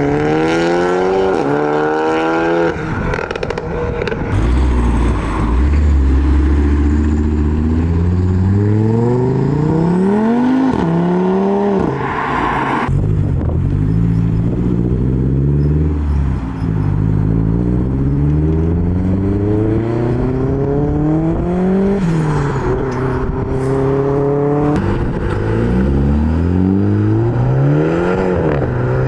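Modified car engines accelerating away one after another, each rising in pitch then dropping back at a gear change, several pulls in a row.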